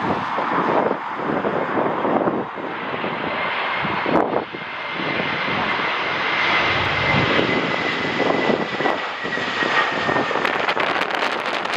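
Jet airliner's engines: a roar with a thin whine that comes in about three seconds in and slowly falls in pitch, with gusts of wind buffeting the microphone.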